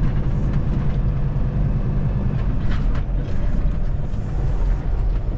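Semi-truck's diesel engine running steadily under way, a low even drone with road noise, heard from inside the cab.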